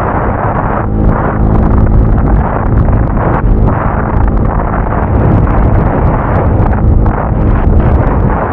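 Motorcycle engine running at a steady pitch while riding, buried under heavy wind buffeting on the microphone.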